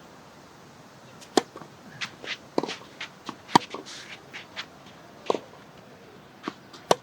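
Singles tennis rally: sharp racket-on-ball hits and ball bounces, mixed with footsteps on the court, starting about a second in after a steady low hiss.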